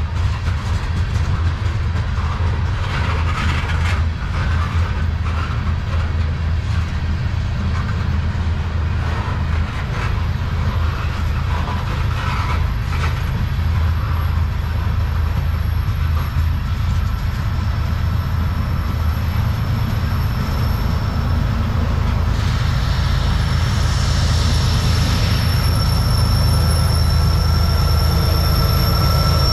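Freight train tank cars rolling past at track side: a steady low rumble of steel wheels on rail with scattered clicks from the trucks and rail joints. About three-quarters of the way through, a thin high wheel squeal sets in, and the rumble grows a little louder near the end as a BNSF diesel locomotive in the consist draws near.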